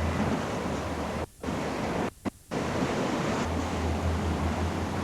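Wind buffeting the microphone over the rush of water past a yacht under sail at about 11 knots, a steady noisy rumble. The sound cuts out suddenly twice, once briefly about a second in and again about two seconds in.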